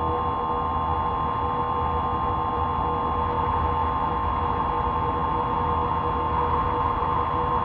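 A steady drone of several held tones over a low hiss and rumble, unchanging throughout.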